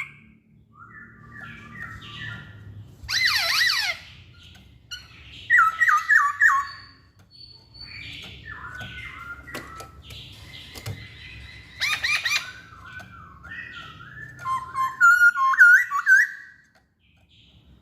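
Poksay Hongkong (black-throated laughingthrush) singing: varied phrases of whistles, falling notes and harsh squawks in separate bursts, with short pauses between them.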